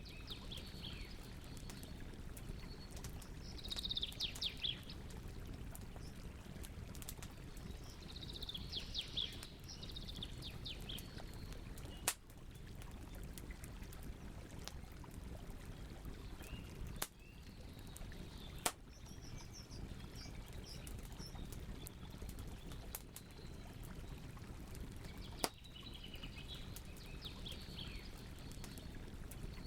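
Campfire burning with a steady crackle and a few sharp pops scattered through. A songbird sings short, quick runs of high notes every few seconds.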